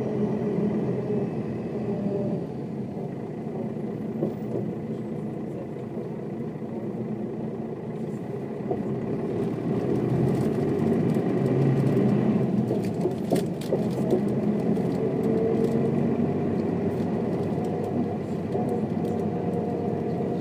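Mercedes-Benz O407 bus's six-cylinder diesel engine running while the bus drives, easing off for a few seconds and then picking up again about halfway through as the bus accelerates. Short rattling clicks come through in the second half.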